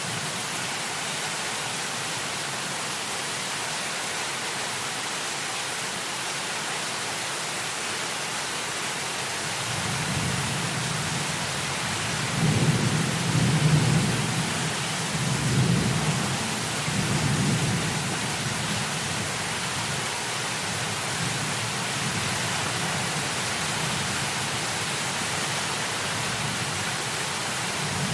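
Heavy rain falling with a steady hiss, while a low rumble of thunder builds about a third of the way in, rolls in several swells through the middle, and settles back to a low steady rumble.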